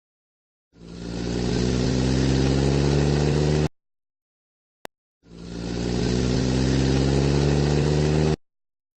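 Car engine sound effect played twice, each run about three seconds long, swelling in and then cutting off abruptly, with a short click between the two runs.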